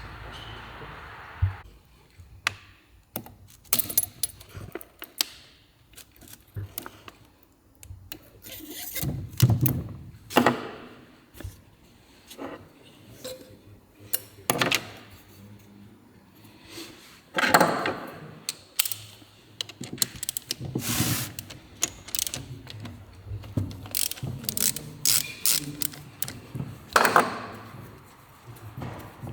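Metal hand tools and engine parts being handled during a Honda 110cc engine rebuild: irregular clinks, clicks and clanks, with a few louder knocks.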